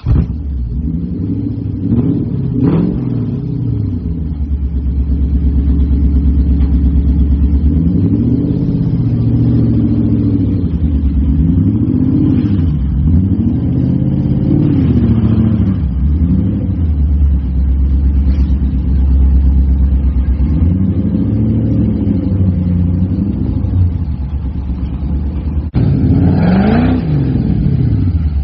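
Toyota Sera's 1.5-litre four-cylinder engine running and being revved in short throttle blips, about six times, each rising and falling smoothly back to a steady idle.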